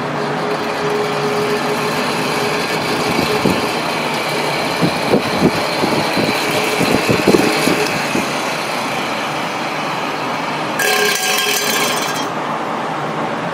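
Restored antique electric fan running steadily, a whooshing airflow with a faint hum. A few knocks or rattles come between about four and eight seconds in, and a brief louder hiss comes near the end.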